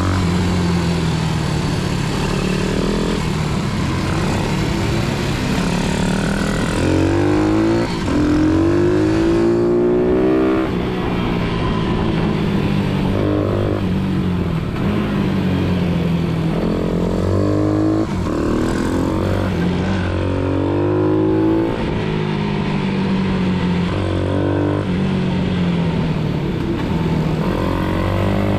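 Pit bike's small single-cylinder engine being ridden hard: it revs up, the pitch drops sharply as it shifts into the next gear, then it revs up again, and it falls back when slowing, in repeated cycles.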